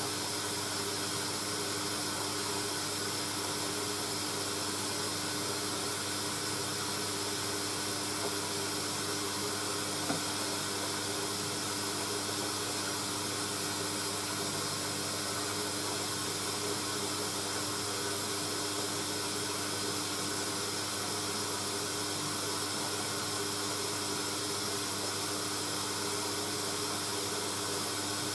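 Hoover A3060 Electronic 1100 washing machine taking in water for a rinse: a steady hiss of water running into the drum, over a constant low hum.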